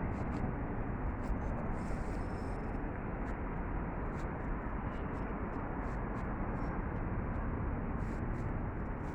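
Steady outdoor background noise, an even rumble and hiss with faint scattered ticks and no speech.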